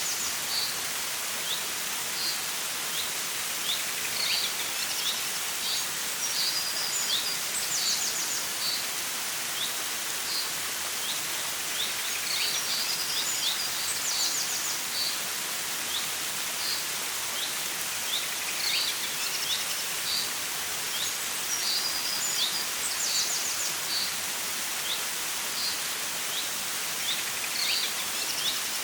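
Forest stream flowing steadily, a constant rushing babble, with birds chirping over it: short high chirps every second or two and a few quick trills.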